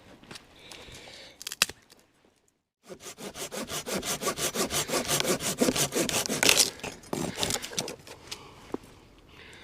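Folding hand saw (Silky Gomboy) cutting through wood with rapid back-and-forth strokes. It starts about three seconds in and stops near the end.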